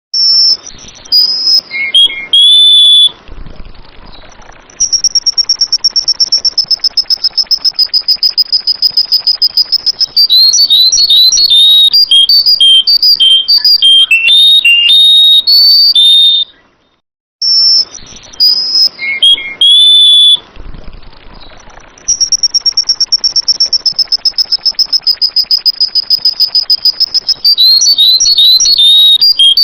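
Sooty-headed bulbul (kutilang) singing loud, bright whistled phrases, then a long rapid high trill lasting several seconds, then quick varied whistles. The sequence breaks off for about a second midway and then repeats the same way.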